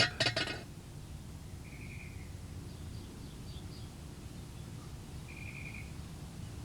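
Low steady outdoor hum with faint bird chirps: two short trills a few seconds apart, with a few fainter calls between them.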